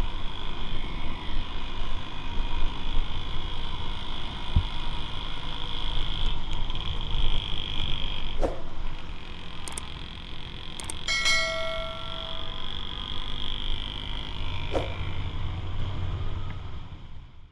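Motorcycle riding in the rain: steady wind, engine and wet-road noise on the rider's microphone. A vehicle horn sounds briefly about eleven seconds in.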